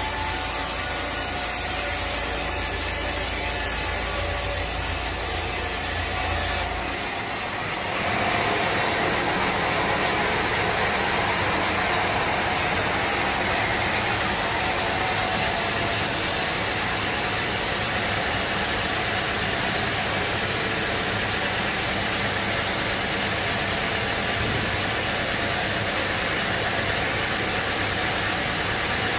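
Sawmill machinery running steadily. The sound changes abruptly about seven seconds in.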